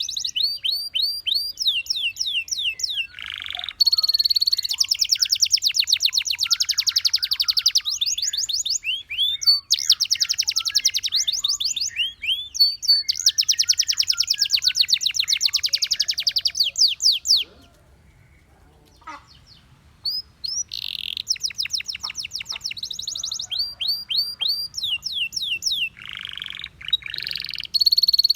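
Domestic canary singing: long trills, each a fast run of the same high note repeated many times, changing from one note type to the next. The song breaks off for a couple of seconds a little past the middle, then resumes.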